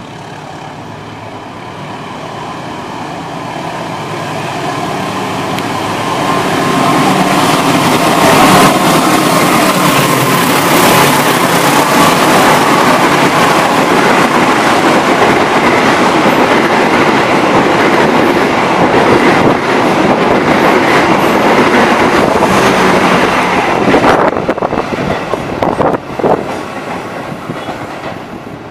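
A train passing close by: the rumble builds over about seven seconds, stays loud with wheels clattering over the rail joints, then fades near the end with a few sharp clanks.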